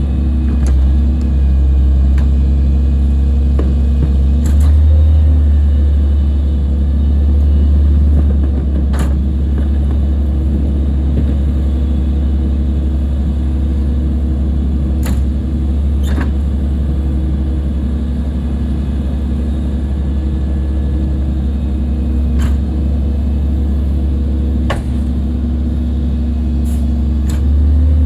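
Garbage truck engine running steadily with a deep, loud rumble, with a few short sharp knocks scattered through it.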